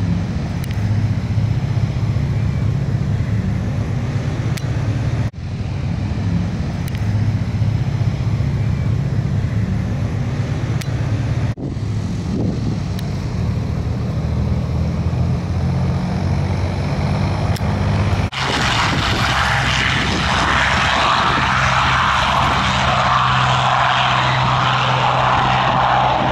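Propeller aircraft engines droning steadily in several short clips cut together. About two-thirds of the way through the sound changes abruptly to a louder, higher-pitched engine noise.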